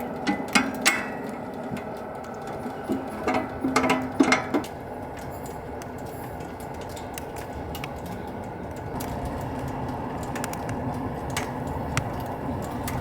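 Wooden knocks and clatter from a thick firewood log being handled and worked to fit a wood stove: a few sharp knocks right at the start and a longer cluster about three to four and a half seconds in, then a low steady background with occasional light taps.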